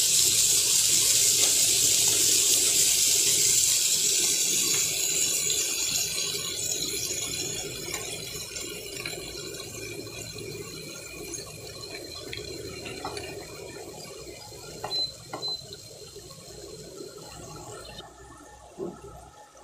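Tomatoes, onion and dried fish frying in oil in a pan, a loud sizzle that gradually dies down. A few short clicks come in the second half.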